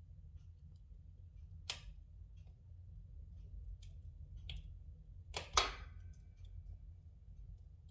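Spruce logs burning in a fireplace, crackling with scattered sharp pops, the loudest a quick double pop about five and a half seconds in, over a steady low rumble.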